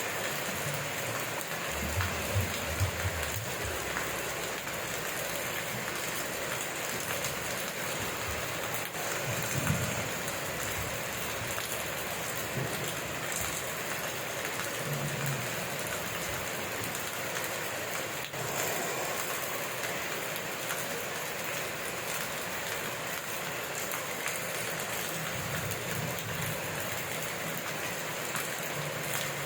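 Steady heavy rain falling, an even hiss throughout, with a few brief low rumbles about two seconds in and again about ten seconds in.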